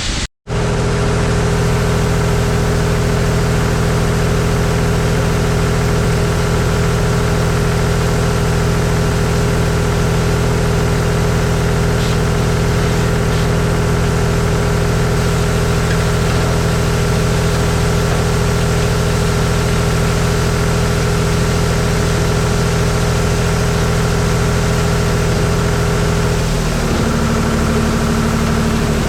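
An engine running steadily at a constant speed, with a brief dropout just after the start. About 27 seconds in, its pitch and level shift.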